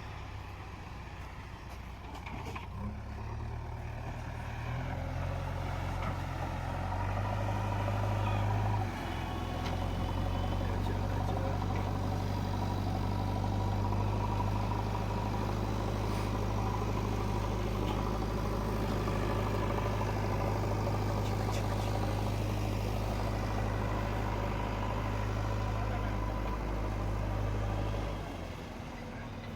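JCB 3DX Eco backhoe loader's diesel engine running. The engine steps up and gets louder about five to nine seconds in, holds steady, then drops back shortly before the end.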